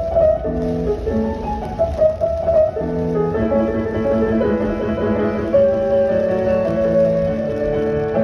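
Piano music playing, held chords and a melody line changing every half second or so, over a low steady rumble.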